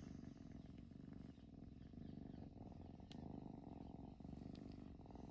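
A domestic cat purring: a low, rapid rumble that dips briefly between breaths.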